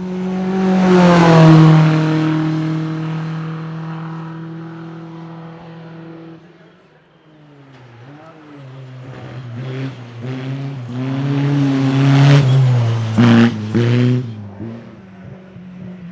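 Formula Ford single-seater race car passing at full throttle, its engine note dropping as it goes by and then fading away. A few seconds later another race car engine grows louder, revving hard, with the note breaking sharply several times in quick succession near the end as it shifts gear.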